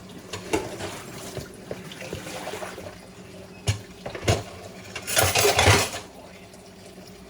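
Kitchen sounds: a few sharp knocks of dishes and utensils, then a brief rush of water from a sink tap about five seconds in.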